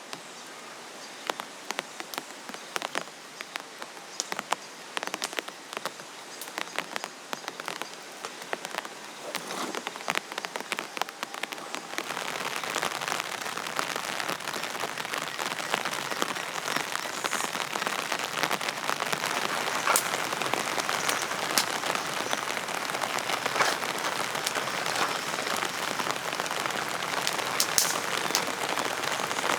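Rain falling, with separate drops tapping over a light patter at first; about twelve seconds in it turns abruptly into a louder, denser, steady downpour.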